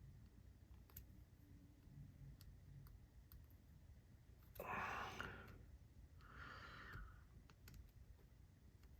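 Faint clicks and light handling taps of small magnets being worked at by hand, with two short hissing rasps about halfway through.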